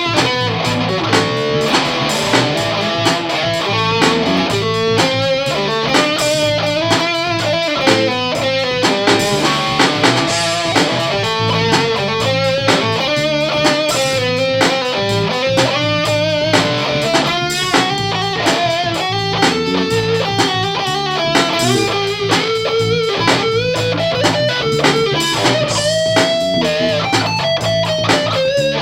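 Jazzmaster electric guitar played through a treble booster and a Mooer Cruncher distortion pedal into a Sovtek 50 tube amp: a distorted melodic line with bends and slides over a steady low note.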